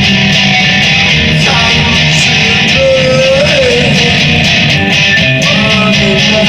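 Guitar playing an instrumental passage without singing, chords with a few sliding single notes, recorded loud through a phone's microphone.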